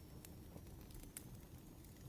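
Faint crackling of burning firewood: a few scattered sharp pops, one a little louder just over a second in, over a low steady rumble.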